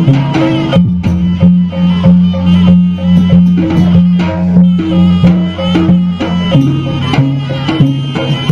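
Javanese jaranan (kuda lumping) troupe music played live: a traditional percussion ensemble with quick, regular drum and metal strikes over steady low held tones.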